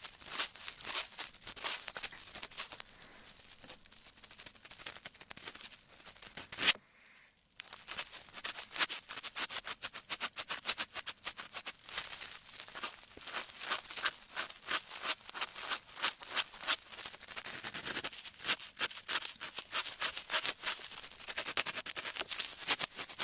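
Ear pick scratching and scraping in a continuous stream of rapid, crisp crackly strokes, typical ASMR ear-cleaning sounds. The sound drops out briefly about seven seconds in, then resumes.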